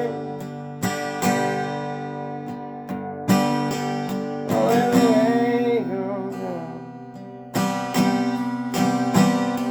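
Music: acoustic guitar strumming chords in an instrumental passage of a song, with a wavering melody line coming in about halfway.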